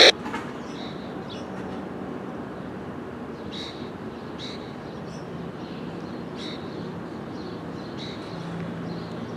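Birds chirping in short, repeated high calls over a steady outdoor background. A low engine drone grows stronger near the end.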